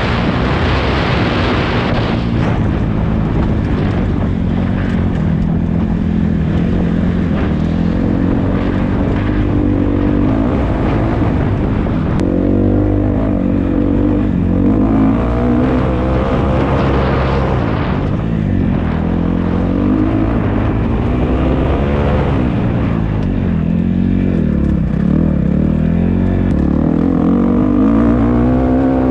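Dirt bike engine revving up and down again and again as it is ridden around a motocross track, the pitch rising through each burst of throttle and dropping off before the next.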